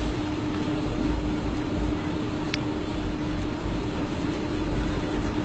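Steady roadside traffic rumble with a constant low hum, and a single sharp click about two and a half seconds in.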